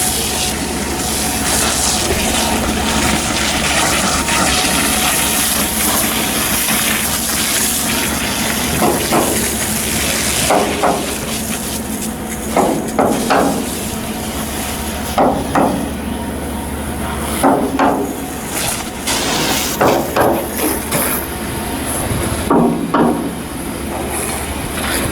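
Irregular hammer blows, several in quick clusters through the second half, over steady loud shipyard work noise with a low hum that stops about two-thirds of the way through.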